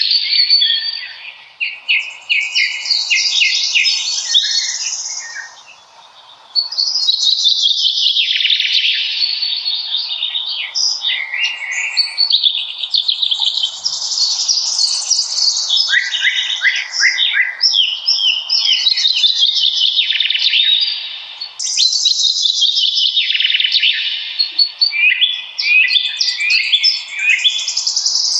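A songbird singing loud, fast-noted phrases, each several seconds long, repeated with brief pauses.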